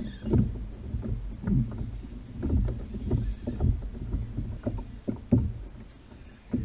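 Irregular low knocks and thumps against a kayak hull, about one or two a second, over a low rumble.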